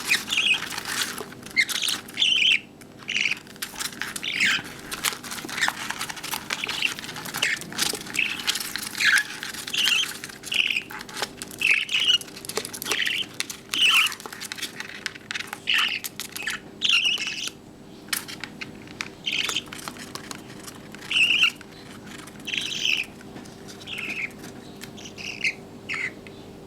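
Budgerigar chicks calling: short squawking calls repeated about once or twice a second, mixed with many small clicks.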